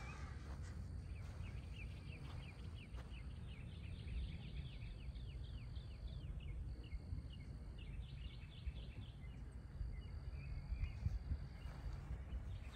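Outdoor ambience of birdsong: rapid runs of short, falling high chirps for several seconds, pausing once midway, over a low steady rumble.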